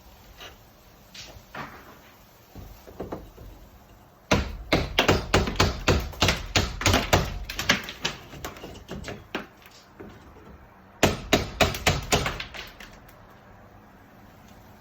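Quick series of hard knocks, several a second, in two runs: a long one of about six seconds starting about four seconds in, then a shorter one of about two seconds near eleven seconds in, with a few faint knocks before them.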